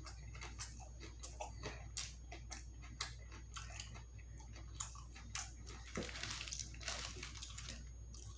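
Close-up chewing of a sauced chicken wing: wet, irregular mouth clicks and smacks, a few each second, over a steady low hum.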